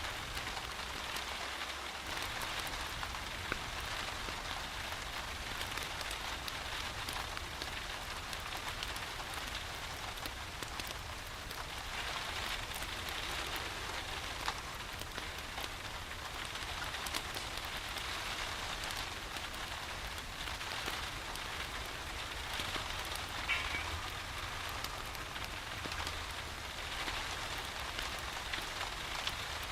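Steady rain falling on a surface, an even hiss with many scattered sharp drop ticks over a low, steady rumble.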